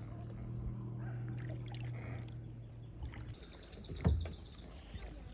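Sounds of paddling a kayak on the water, with a steady low drone for the first three seconds. Then a high wavering call comes in, and a single loud knock sounds about four seconds in.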